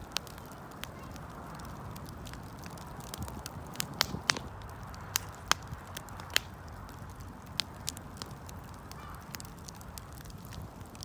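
Wood fire burning: a steady low rush with scattered sharp crackles and pops, the loudest snaps in the middle.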